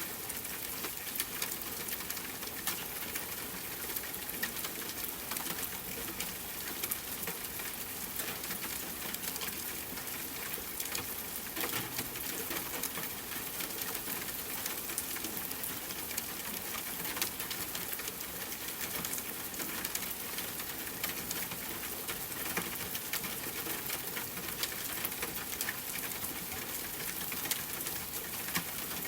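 Steady rainfall with a wood fire crackling and popping in frequent short, sharp snaps over it.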